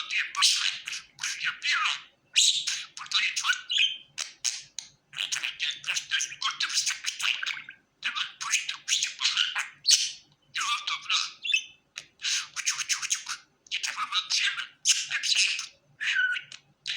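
Budgerigar warbling: a rapid, high-pitched chattering warble in bursts of a second or two with short breaks between them.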